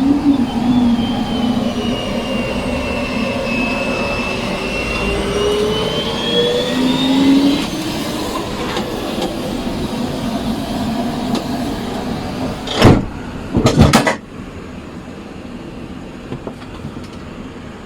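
Airliner passenger door being closed: a steady rumble with a slowly gliding whine comes in through the open door, then a few heavy clunks about 13 seconds in as the door swings shut and latches. After that the noise drops to a quieter cabin hum.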